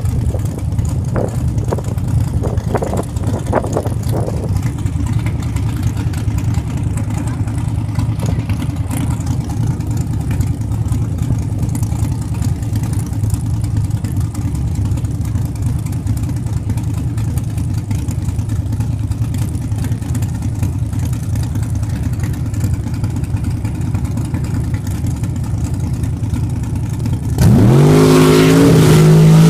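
Drag-racing engines idling at the start line with a steady low rumble. About 27 seconds in, one launches at full throttle, much louder, its pitch rising sharply as it accelerates down the strip.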